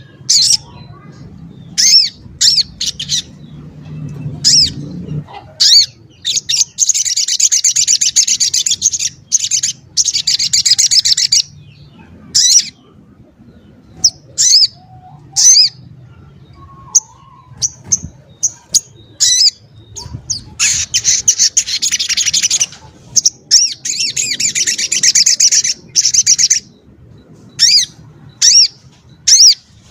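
A sogok ontong singing: loud, sharp, high chirps, several times breaking into dense rapid trills lasting two to four seconds.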